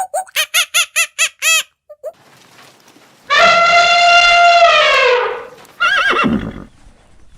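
Animal calls: a quick run of short, evenly spaced chirping calls, then about halfway through a long, loud, brass-like call held steady before falling in pitch at its end, followed by a shorter call that slides steeply down.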